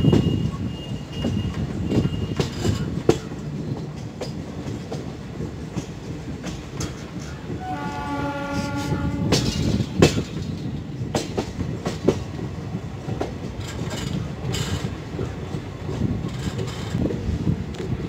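Indian Railways passenger train running at speed, heard from an open coach door: a steady rumble with irregular clicks of the wheels over rail joints. A thin high wheel squeal sounds on the curve in the first couple of seconds. About eight seconds in, the locomotive horn sounds once, for about a second and a half.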